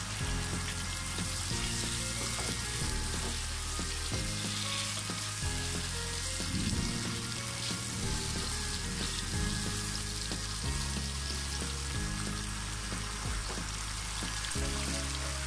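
Boal fish pieces frying in oily spice masala in a pan, a steady sizzle, with a wooden spatula stirring them partway through. Background music plays underneath.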